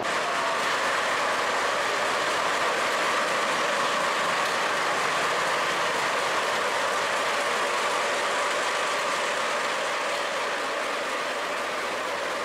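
Steady, even running noise of the Sagano Scenic Railway trolley train, a constant hum with no distinct clacks or squeals.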